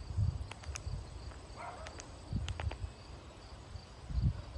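Insects, most likely crickets, trilling steadily as a faint high background drone. A few very short, high bird notes sound over it, along with low rumbles.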